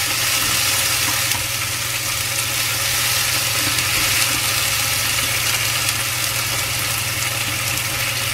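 Tomato, lemon, ginger and garlic sizzling in oil in a frying pan as they are stirred with chopsticks, over a steady low mechanical hum.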